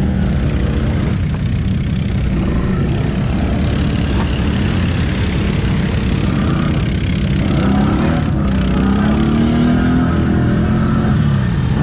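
ATV engine running steadily, then revving higher over the last few seconds and easing off near the end.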